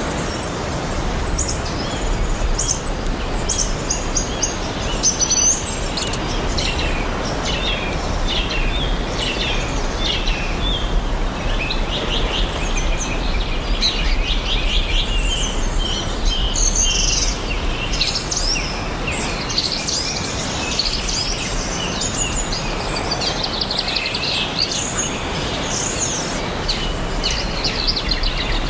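Several songbirds chirping and singing, with short calls and quick trills, over a steady, even rushing background noise.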